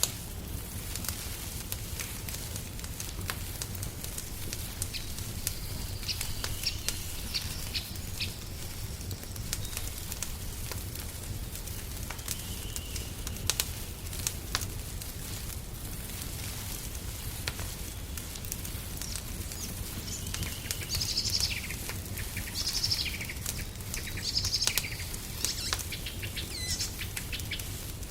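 Wood fire crackling in a fireplace with frequent sharp pops. Small birds chirp, now and then early on and in a busier run of short calls in the last third.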